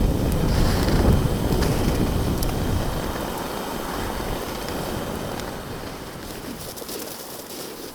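Strong wind gusting against the microphone, a low rumbling buffet that is heaviest in the first few seconds and then eases off.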